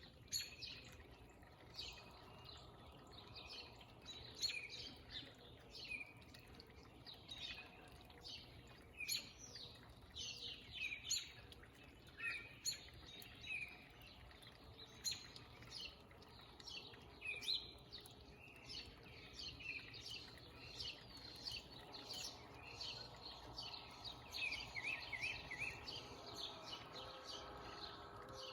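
Small backyard birds chirping: many short, high chirps and calls at irregular intervals throughout, over a faint steady background noise.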